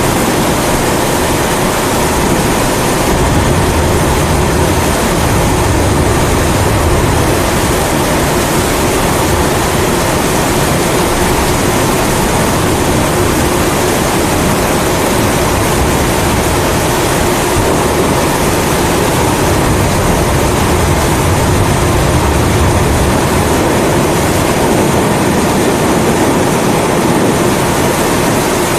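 A pressurized kerosene (Primus-type) stove burner burning with a steady hiss, mixed with steady rain. Low thunder rumbles build about three seconds in and again past the middle.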